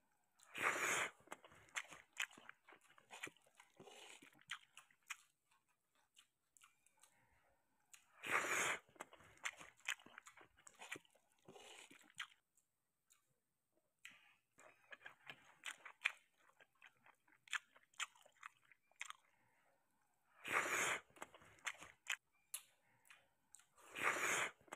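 A person eating sardines and rice by hand, chewing with many small wet clicks and smacks. Four louder noisy bites or slurps of about half a second each come near the start, about eight seconds in, about twenty seconds in and near the end.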